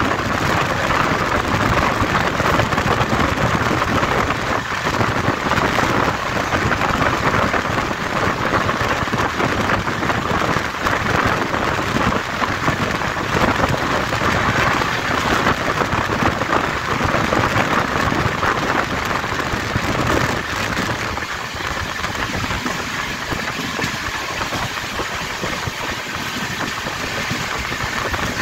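Steady rushing and rumbling of a passenger train running, heard from on board: wheels on the rails and air noise. It eases slightly about 21 seconds in.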